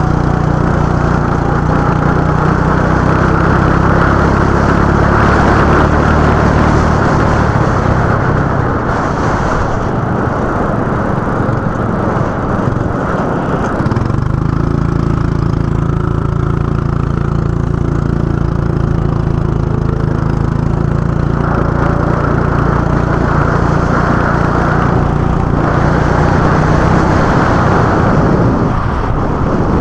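Go-kart engine running hard, its note easing off for several seconds about a third of the way in, then pulling strongly again from about halfway before easing near the end.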